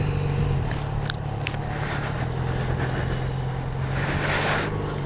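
Motorcycle engine running steadily at idle, its pitch unchanging.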